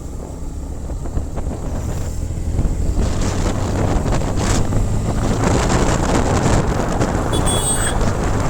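Motorcycle being ridden, wind buffeting the microphone over the engine's low drone; the wind rush grows louder about three seconds in as speed builds.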